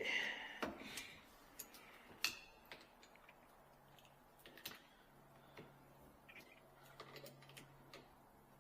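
Sparse, faint clicks and light taps of hands working on the sink plumbing, with a faint low hum from about five seconds in.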